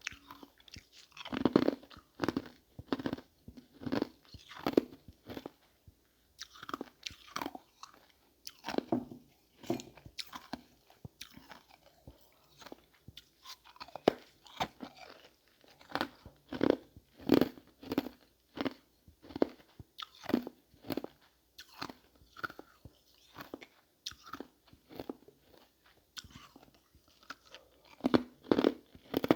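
Close-miked crunching and chewing of ice marbles: sharp crunches come in runs of about one to two a second, with short pauses between bites.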